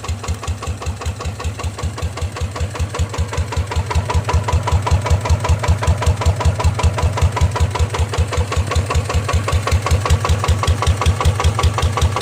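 Yanmar 150 diesel engine running through a downturned exhaust pipe, a deep, even beat of about five to six pulses a second that gets a little louder about four seconds in.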